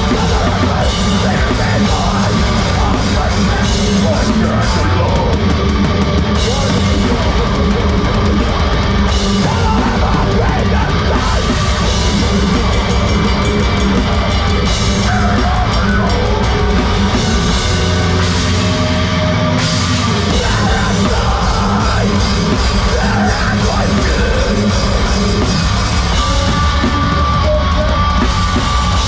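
A heavy rock band playing loud and live, with a pounding drum kit under a dense, unbroken wall of amplified instruments.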